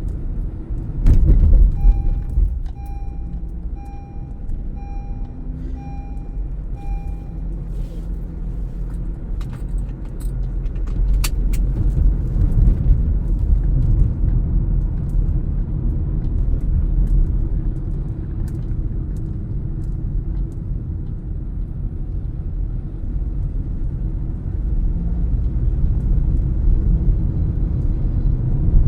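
Car driving, heard from inside the cabin: steady engine and road rumble, with a loud clunk about a second in. From about two seconds in, the turn-signal indicator ticks about twice a second for some five seconds, then stops.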